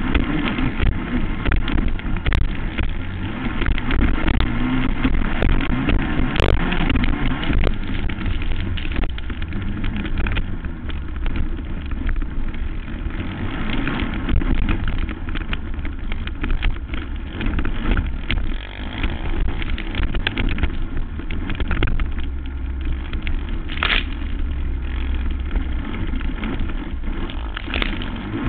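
Racing quad (ATV) engine running hard during a quadcross race, with a heavy rumble and frequent knocks and rattles over the track.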